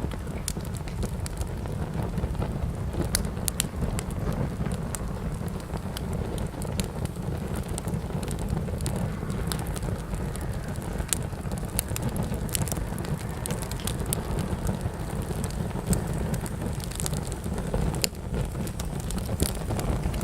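Wood fire burning in a fireplace: a steady low rumble of flame with frequent irregular crackles, pops and snaps of burning wood.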